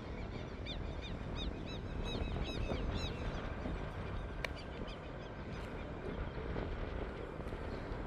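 Birds chirping in a quick run of short, arched notes for about the first three seconds, over a steady low rumble of a distant light aircraft climbing away and wind. A single sharp click comes about halfway through.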